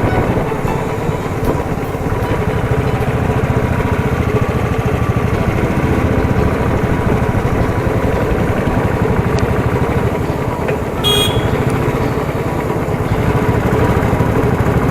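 Motorcycle riding at road speed, its engine and wind rumbling steadily, with a brief horn toot about eleven seconds in.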